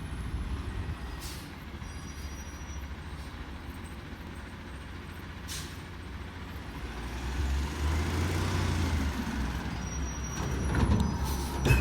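Autocar ACX garbage truck with a Heil Half/Pack body, its engine running with a steady low rumble that grows louder about seven seconds in, with short air hisses from its air brakes.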